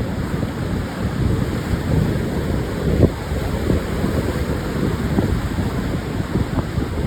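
Pacific surf breaking on a sandy beach in strong wind: a steady low rush of waves with wind buffeting the microphone in irregular thumps, the hardest gust about three seconds in.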